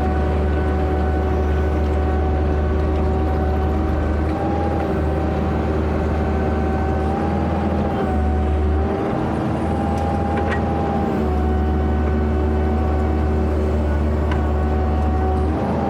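Kubota KX121-3 mini excavator's diesel engine running steadily at working speed, its pitch dipping slightly a few times, with a few light clicks.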